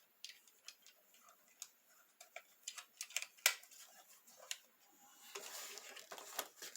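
Faint, irregular clicks and taps of plastic toy parts and packaging being handled, with packaging rustling in the last second or so.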